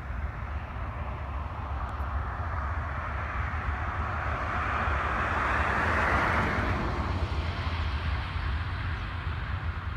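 Distant freight train rolling past. The steady noise of its wheels on the rails swells to a peak about six seconds in and then eases off, over a constant low rumble.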